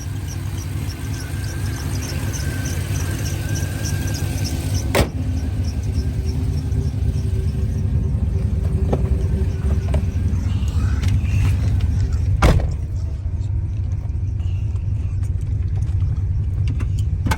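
Turbocharged Chevrolet Silverado's engine running steadily with a low rumble, a faint high whine in the first few seconds from the belt and alternator, which the owner suspects is failing. Two sharp knocks stand out, about five seconds in and again near twelve seconds.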